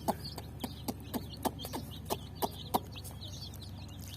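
A group of baby chicks peeping continuously in short high chirps, with sharp irregular clicks about three a second from their beaks pecking at the drinking water.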